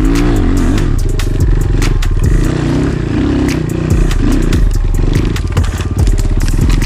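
Enduro motorcycle engine running at low, varying revs, its pitch rising and falling with the throttle, with frequent sharp knocks and clatter.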